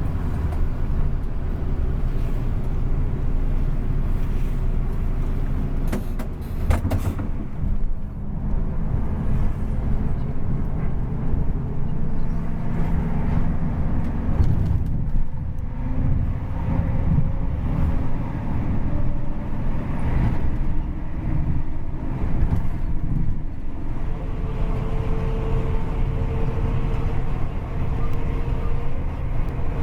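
Po Haryanto bus with a racing exhaust, its engine running under way along with steady road rumble. There are a couple of brief knocks about six seconds in, and a steady higher tone joins for several seconds near the end.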